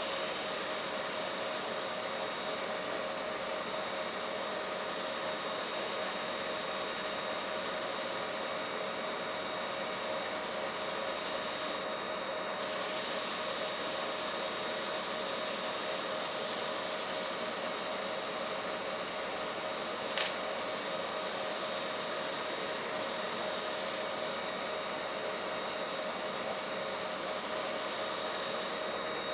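Wood lathe running steadily at raised speed with a walnut handle spinning on it while a finish is burnished in: an even motor hum with a steady whine. A single light click about two-thirds of the way through.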